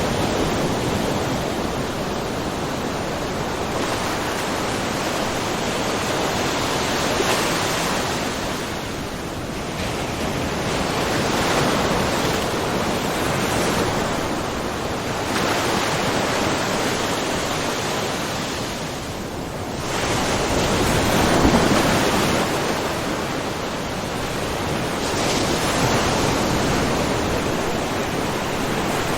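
Small ocean waves splashing lightly in a cove: a steady wash of surf that swells and ebbs every few seconds, with the biggest swell a little past two-thirds of the way through.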